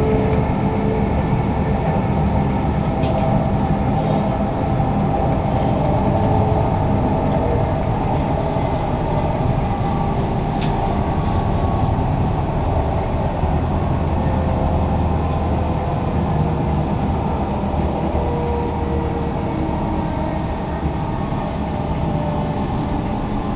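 Moving passenger train heard from inside the carriage: a steady, low running noise from the wheels and running gear on the rails, with one light click about halfway through.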